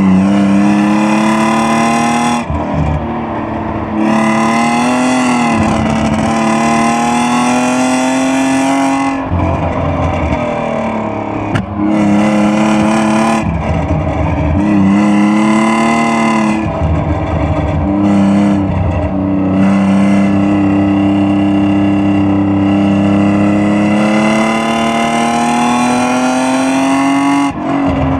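BMW E36 320i's 2.0-litre straight-six under hard acceleration, its note climbing steadily for several seconds at a time. There are brief breaks where the pitch falls back about four times, at the gear changes.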